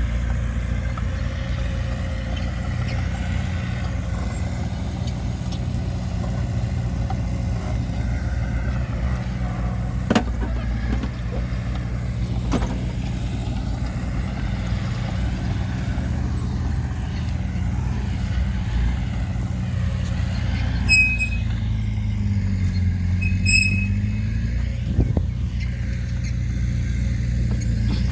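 Heavy earthmoving machinery's diesel engine running steadily. A sharp knock comes about ten seconds in and another a couple of seconds later, and a few brief high squeaks come about three-quarters of the way through.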